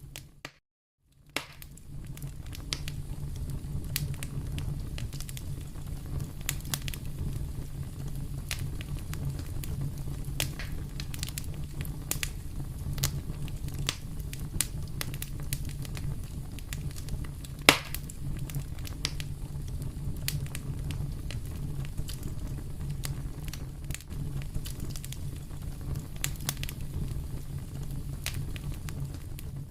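Wood fire in a fireplace crackling and popping, over a steady low rumble of the flames, with one especially loud pop a little past halfway. The sound drops out briefly about half a second in.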